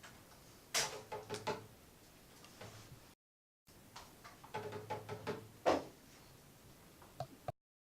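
Sparse knocking strikes with a short ringing tone, in two small clusters of several quick hits each and a single hit near the end.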